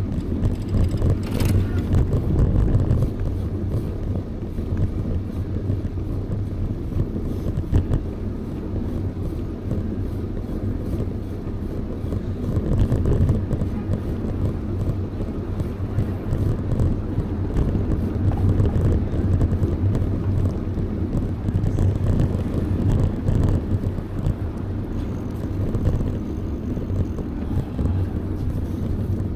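Wind rumbling on the microphone while riding a bicycle, a steady low roar with road noise under it.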